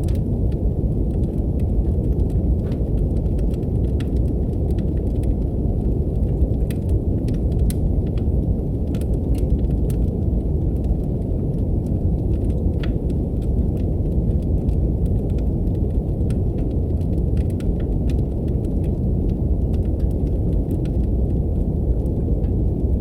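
Steady brown noise, a deep even rumbling hiss, mixed with the faint irregular crackle and pops of a wood fire in a fireplace.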